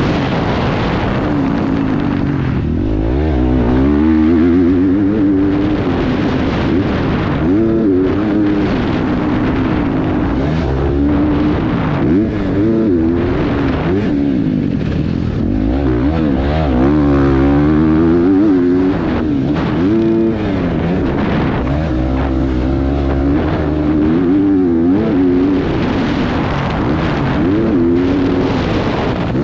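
KTM 350 XC-F dirt bike's single-cylinder four-stroke engine revving hard and dropping off over and over as the rider accelerates, shifts and rolls off around a motocross track.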